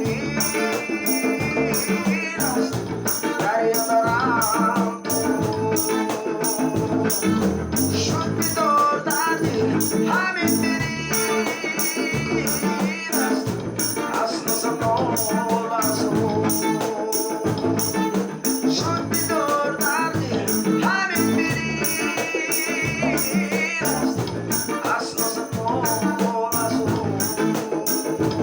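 Ensemble music: a melody with a shaker or rattle keeping a steady, even beat.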